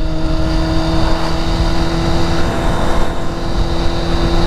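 Road vehicle cruising at steady highway speed: a constant engine drone that holds one pitch throughout, over a steady rush of road and wind noise.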